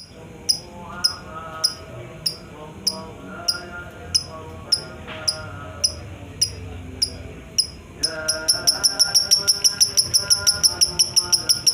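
Lovebird giving its ngekek chatter: sharp, high chirps about every half second that quicken to about three a second around 8 seconds in, over lower wavering tones.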